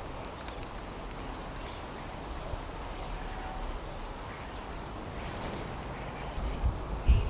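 Small birds at a garden bird feeder chirping: short clusters of high chirps every second or two over a steady outdoor hiss, with a few low thumps near the end.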